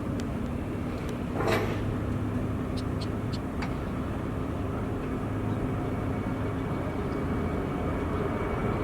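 Steady low engine rumble with a constant hum, with a brief rushing sound about one and a half seconds in and a few faint clicks.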